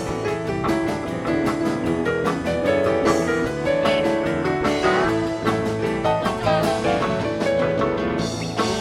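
A live rock band playing an instrumental passage with no singing: electric guitars, bass, keyboards and drum kit, with a steady beat.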